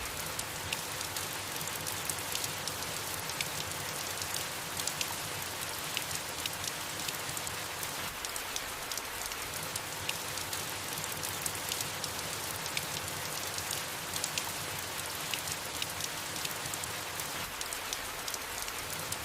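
Steady soft rain falling, with many small scattered drop patters over an even hiss.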